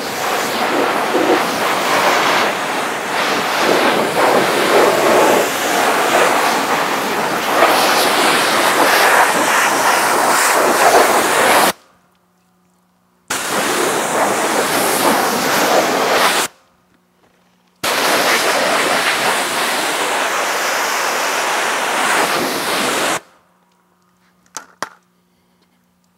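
Pressure washer spraying water onto a motorcycle to rinse off cleaner, in three long runs that cut off suddenly as the trigger is released, about 12 s, then 3 s, then 5 s.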